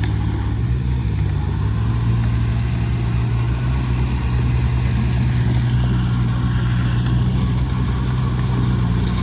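Heavy diesel engine of earthmoving machinery running steadily at an even, low pitch.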